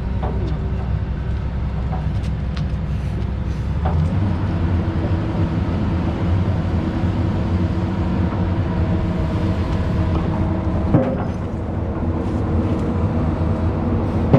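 A heavy machine's engine running steadily, its note shifting a little about four seconds in, with a single sharp knock about eleven seconds in.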